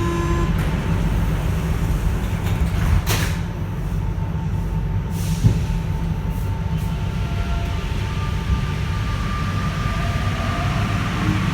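Santiago Metro NS-93 train heard from inside the car: a steady low rumble, with a faint steady tone above it and two short knocks, about three and five seconds in.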